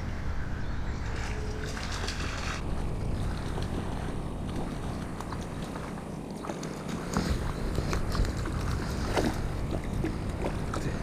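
Steady low rumble of wind on the microphone outdoors, with scattered small clicks and knocks in the second half.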